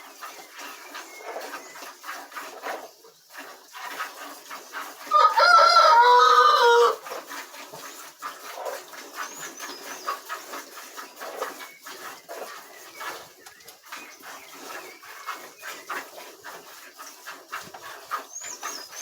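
A rooster crows once, loudly, for about two seconds some five seconds in, over a steady patter of rain. Small birds chirp faintly now and then.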